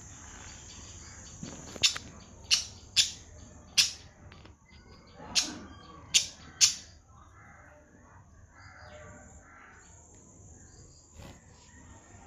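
A parrot giving seven short, sharp calls over about five seconds, followed by softer chattering sounds. A steady high-pitched tone runs underneath.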